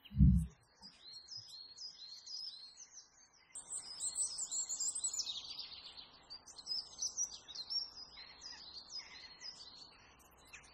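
Small birds chirping: many short, quickly falling chirps overlapping, busier after the first few seconds. A brief low thump right at the start.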